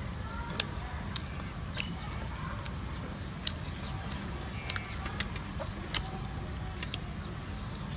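Eating sounds from people chewing soft cakes: scattered sharp mouth smacks and clicks, about seven in all, over a steady low background rumble.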